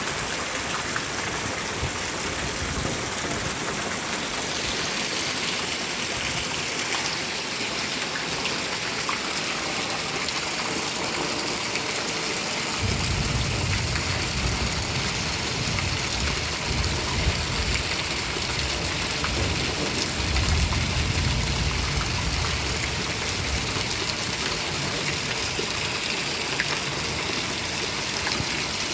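Steady rain falling, with a long low roll of thunder that comes in about halfway through, swells a little later and dies away before the end.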